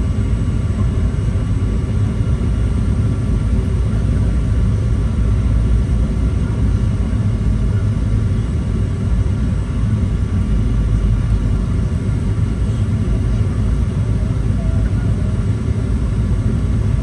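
Steady low rumble of a Boeing 737-800's cabin with its CFM56-7B engines running, with faint steady tones above the rumble.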